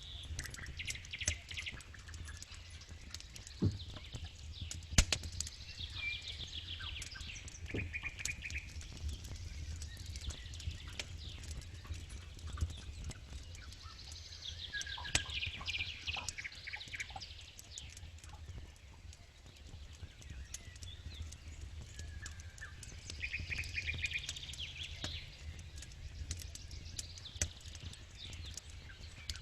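Campfire crackling, with sharp pops, two louder ones about four and five seconds in. Birds sing over it, short trills coming back several times.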